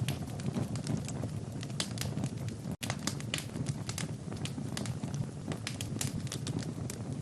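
Wood fire burning in a fireplace: a steady low rumble of flames with frequent irregular sharp crackles and pops. The sound cuts out for a split second a little before halfway.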